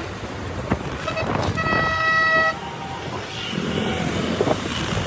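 Road traffic noise with a vehicle horn: a short beep about a second in, then a longer steady honk lasting just under a second.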